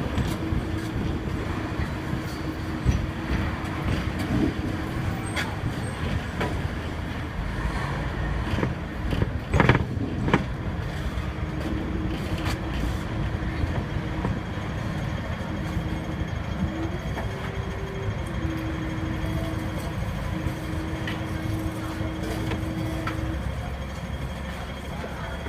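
Hong Kong double-decker electric tram running along its street track: a steady rumble of wheels on rail with a held motor hum that drops out for a while and briefly steps up in pitch. A few sharp knocks come about ten seconds in.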